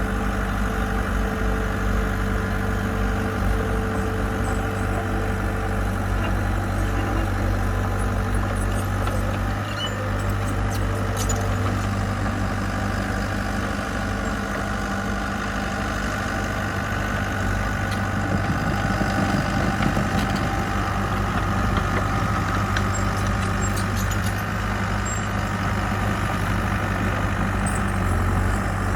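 Diesel engine of construction machinery running steadily, with a few faint clicks and knocks on top.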